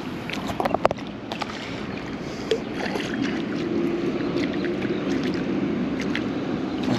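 Wind rumbling across the microphone, with a few light clicks in the first seconds and a steady low hum from about halfway on.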